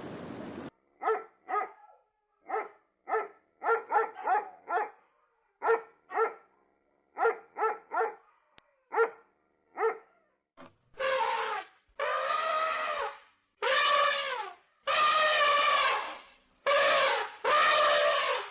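A dog barking in short sharp barks, singly and in quick runs of two or three. From about eleven seconds in come louder, drawn-out calls about a second each.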